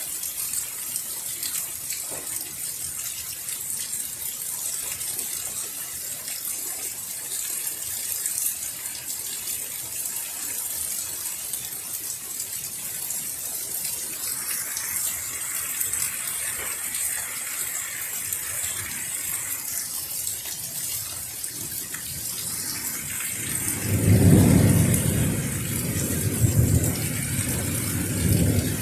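Steady heavy rain falling, with a loud low rumble of thunder rolling in near the end and lasting several seconds.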